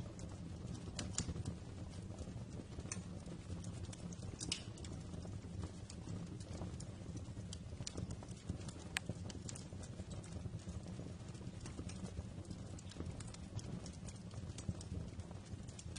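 Wood fire crackling in a fireplace: a steady low rumble of burning, with sharp pops and snaps scattered at irregular moments.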